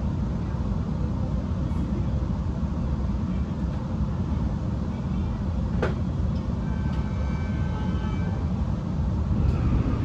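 Steady low rumble of an electric passenger train running, heard from inside the carriage, with a single sharp click about six seconds in.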